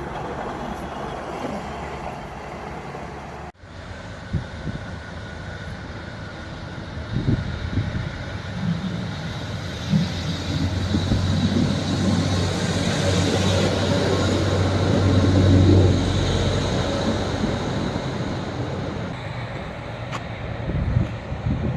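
Diesel passenger train running close by. It cuts out abruptly about three and a half seconds in, then builds again to a low, steady engine drone with a few knocks from wheels over rail joints. The drone is loudest about two-thirds of the way through, then eases off.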